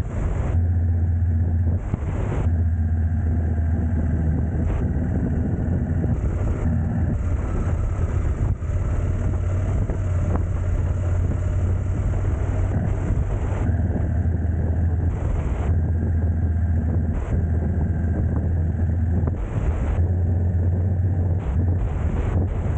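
A vehicle on the move: a steady low engine and road rumble with a faint tone that slowly drifts in pitch, and wind buffeting the microphone in brief gusts every few seconds.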